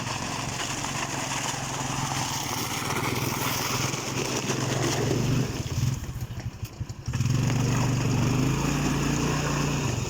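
Off-road vehicle engine running steadily under load in deep mud. Past the middle it drops for about a second and a half to a lumpy, uneven low idle, then picks up and pulls steadily again.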